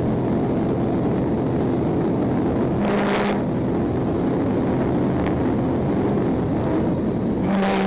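Patrol car driving at speed, a steady drone of engine and road noise. Two brief hissing bursts break in, about three seconds in and again near the end.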